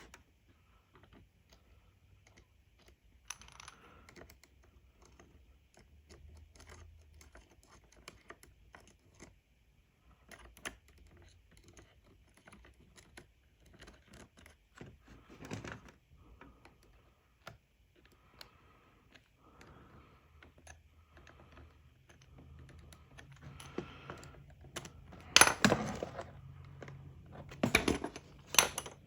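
Small tools and parts being handled during reassembly of a radio control head: scattered light clicks, taps and scrapes. A firmer knock comes about halfway through, and a cluster of louder knocks and rattles comes near the end.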